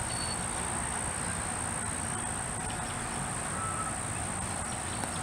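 Insects chirring in one steady, unbroken high-pitched drone over a low background rumble.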